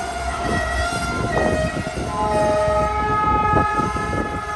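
Loaded gravel train's hopper cars rolling past: a steady low rumble of wheels on rail with clanks, and high steady squealing tones from the wheels that come and go, one dropping in pitch about a second and a half in.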